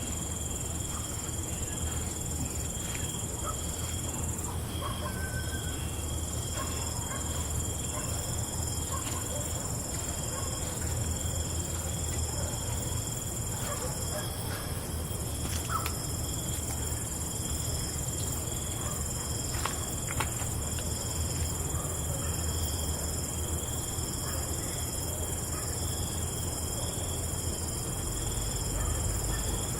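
Night-time chorus of crickets trilling in steady, unbroken high tones over a low steady rumble, with a few faint scattered clicks.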